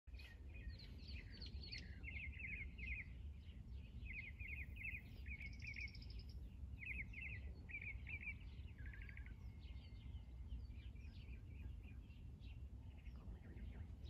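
Birds chirping in short, quick trills of three or four notes, repeated over and over for about nine seconds, then thinning to fainter scattered chirps. A low steady rumble lies underneath.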